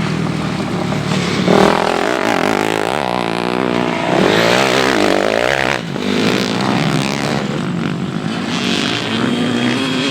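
Motocross motorcycle engines revving, their pitch rising and falling as riders open and shut the throttle, with more than one bike heard at once.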